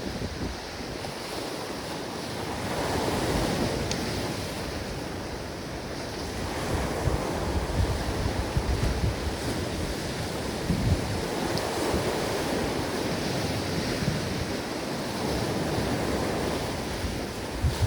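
Ocean waves washing onto a beach, the surf swelling and falling back every few seconds, with wind buffeting the microphone in low rumbles.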